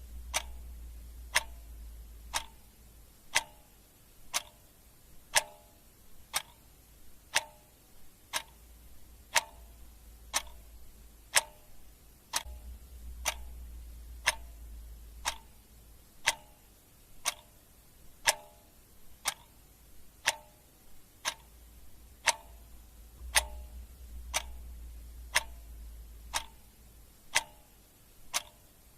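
Clock ticking steadily, about one tick a second, with a faint low hum coming and going underneath.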